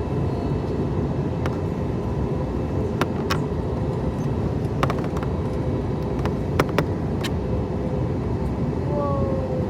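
Steady low cabin roar of an Airbus A321neo on approach, engine and airflow noise heard from a passenger seat, with a faint steady hum. A few sharp clicks stand out, the loudest two close together past the middle.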